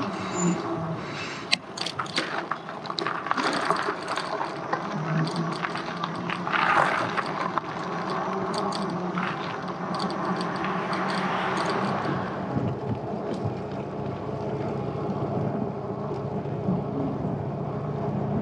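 Ride noise from an electric bike under way: tyre and road rush with a run of clattering knocks and rattles over the first half. It then settles into a steadier hum.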